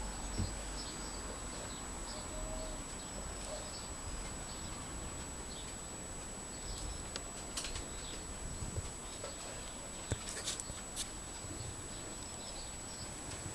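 Faint small bird chirps repeating in the background, with a few sharp clicks about halfway and near the end, over a steady faint high-pitched whine.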